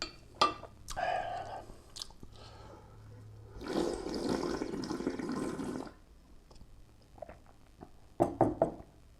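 A rush of liquid lasting about two seconds, in the middle, between sharp mouth and utensil clicks while eating.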